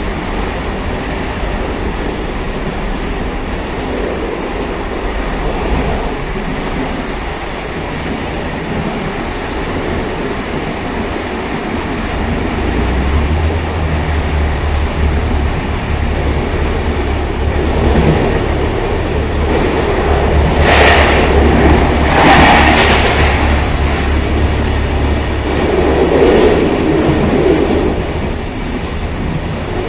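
Railcar running along the track: a steady rumble of wheels on rail, with a low hum coming in about twelve seconds in. Two brief louder rushes come close together about two-thirds of the way through, and another swell follows a few seconds later.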